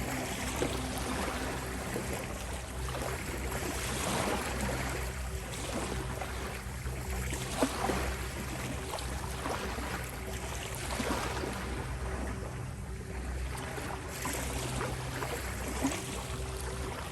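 Ocean waves washing in and out, swelling and fading every few seconds, over a soft steady drone of sustained low tones.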